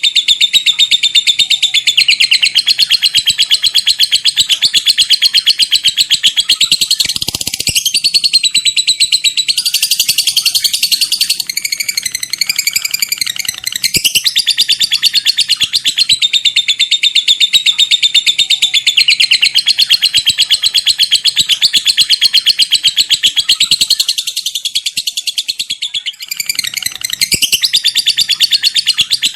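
Lovebird giving its long 'ngekek' chatter: a fast, unbroken run of rapid high notes that goes on for many seconds, changing pattern briefly about a quarter of the way in and again near the end.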